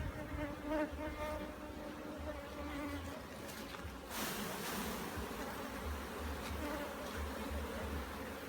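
Many honey bees buzzing as a steady hum around an opened hive during inspection, with a short hiss about four seconds in.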